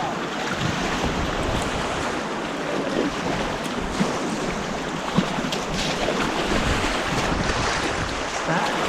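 Turbulent white water rushing down an artificial slalom course, a steady noisy rush with a few small splashes.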